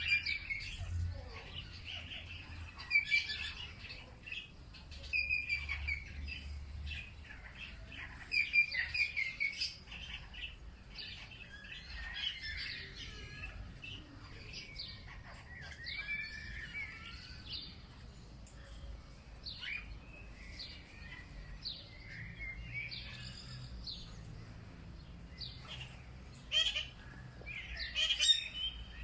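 Several songbirds chirping and singing in overlapping short phrases, with louder bursts of song scattered through, over a faint low background rumble.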